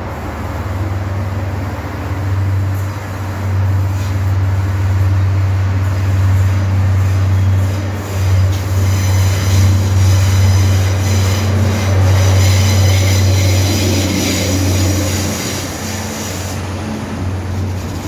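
Northern Ireland Railways diesel multiple unit running past along the platform, its engines giving a steady low drone. From about halfway it adds a high wheel squeal for several seconds, then the drone eases off as it moves away near the end.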